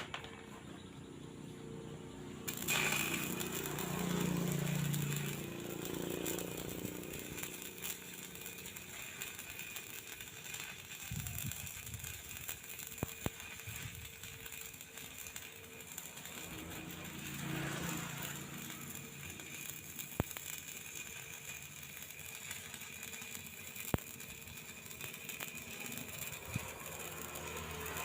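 Stick (flux-coated electrode) arc welding: the arc strikes about two and a half seconds in and then runs as a steady crackling hiss. A low engine sound swells up twice beneath it.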